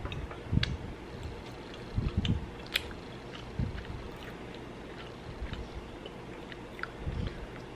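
A person chewing a mouthful of banana oatmeal pancake with the mouth closed: soft mouth sounds with small clicks and a few dull low thumps, over a faint steady background hum.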